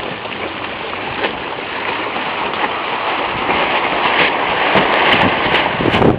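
Steady rushing hiss of water and wind on a sailboat under way, growing louder toward the end.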